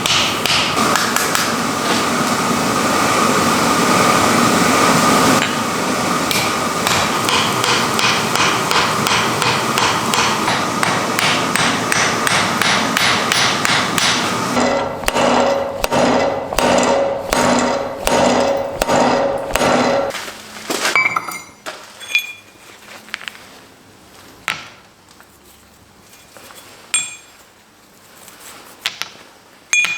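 Hammer blows on iron during forging: first a fast, continuous run of strikes, then from about the middle steady ringing blows about two a second, then only a few scattered single taps near the end.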